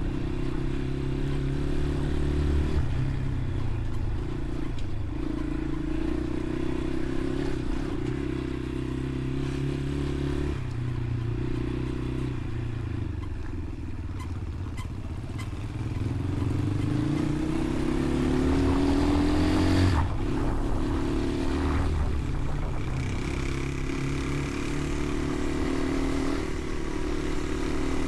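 Motorcycle engine running under way, its pitch holding and then stepping as it changes speed, with a rising rev about two-thirds of the way in and a sharp click soon after.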